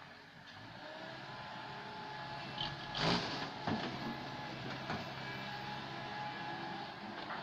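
Komatsu PC160LC excavator's diesel engine running steadily under hydraulic work, with a loud thump about three seconds in and a few smaller knocks after it.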